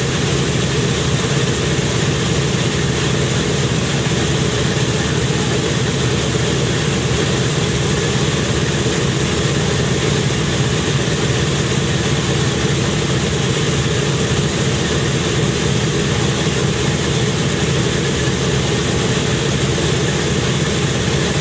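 An engine idling, running steadily with no change in pitch.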